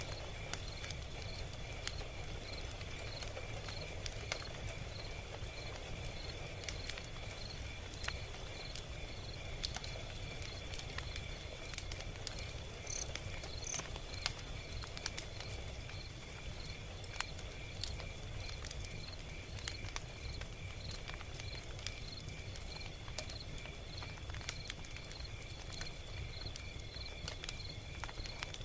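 Log fire crackling: frequent irregular sharp snaps and pops over a low rumble of burning wood. Behind it runs a steady, evenly pulsed high chirping, like crickets.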